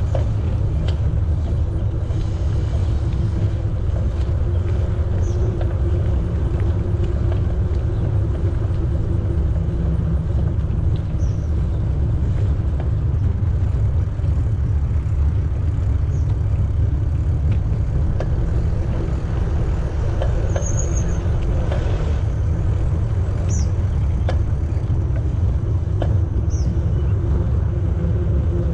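Steady low rumble of wind on the microphone while cycling, with a faint steady hum underneath. A few short high chirps are scattered through it.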